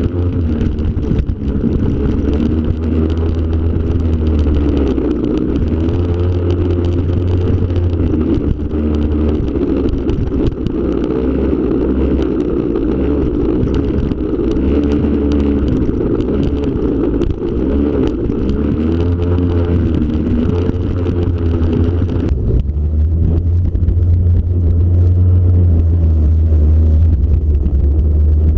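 Yamaha PW50's small two-stroke single-cylinder engine under way, its pitch rising and falling again and again as the throttle is opened and closed, over a steady low rumble. The higher hiss drops away abruptly about three-quarters of the way through.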